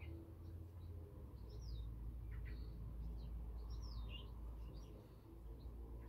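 Garden birds singing: scattered short high chirps and swooping whistled notes, over a steady low rumble.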